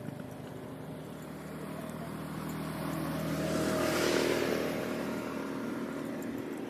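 A motor vehicle driving past: its engine hum and tyre noise grow louder, are loudest about four seconds in, then fade away.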